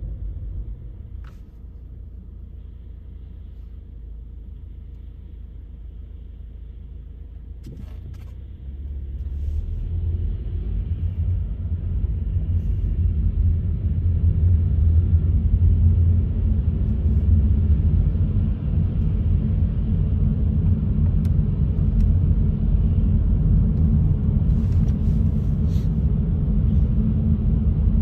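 Car driving on wet, melting-snow roads: a steady low road and engine rumble that grows louder from about nine seconds in and then holds.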